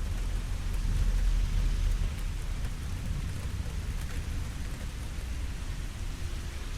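Steady rain falling, with faint drop ticks over a low rumble of thunder that swells about a second in and then eases off.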